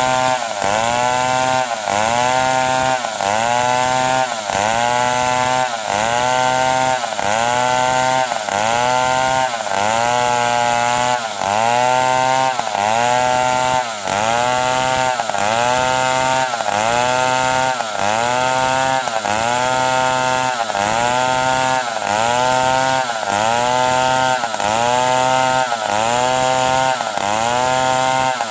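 Stihl 070 large two-stroke chainsaw cutting wood into boards, its engine pitch dipping under load and recovering in an even rhythm about once a second.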